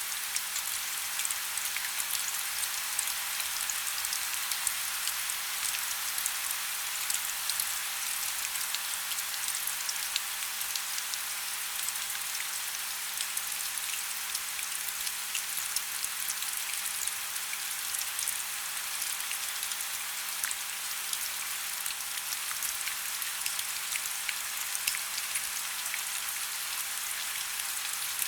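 Steady rain falling, a dense even hiss full of small sharp drop ticks.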